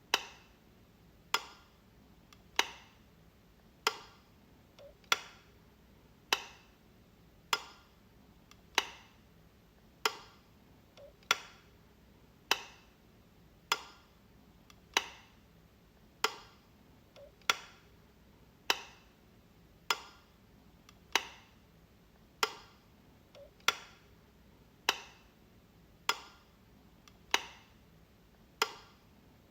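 Light switch clicking, one sharp click about every one and a quarter seconds in an even, unbroken rhythm.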